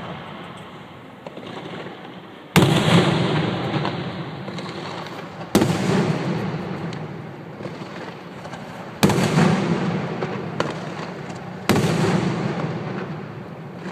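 Fireworks bursting overhead: four loud bangs about three seconds apart, each a sudden crack followed by a rolling echo that fades over a few seconds, with fainter pops in between.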